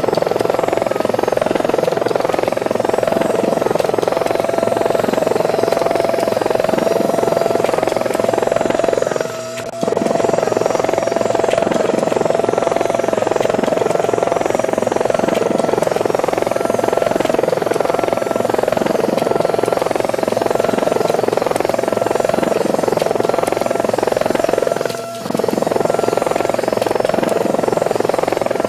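Helicopter rotor sound: a steady, dense buzz with a constant whine, briefly dipping in level twice, about a third of the way in and again near the end.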